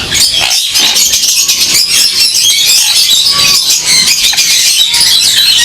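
A flock of Jenday conures squawking and screeching: many short, shrill, overlapping calls in a dense, continuous chorus.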